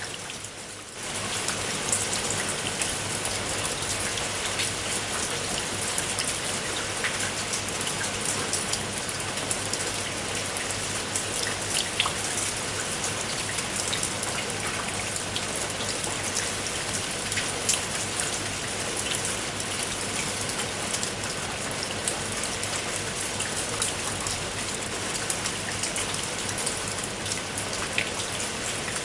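Steady rain, with many individual raindrops heard as sharp ticks over the even hiss of the rainfall. The sound dips briefly in the first second, then holds level.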